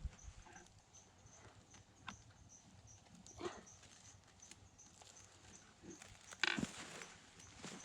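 Faint scattered knocks and rustles of a weasel box trap being handled and checked, with a louder sharp knock about six and a half seconds in.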